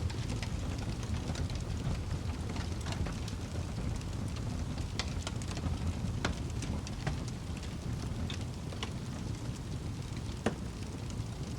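Wood fire crackling in a fireplace: irregular sharp pops and snaps over a steady low rumble of burning, with one louder pop near the end.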